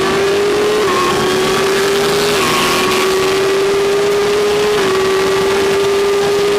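BMW S1000RR's inline-four engine pulling hard at high revs on the track, its pitch climbing steadily and dipping briefly at three quick upshifts, about one, two and a half, and five seconds in, with wind rush over the bike.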